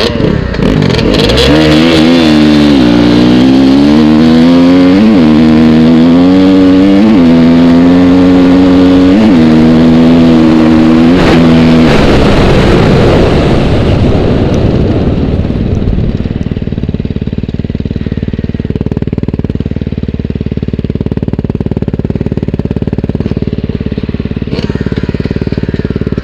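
Motorcycle engine accelerating hard up through the gears. Its pitch climbs and then drops at each upshift, about every two seconds, four or five times, on a run checking whether it will shift into fifth. It then comes off the throttle and settles into a lower, steady running.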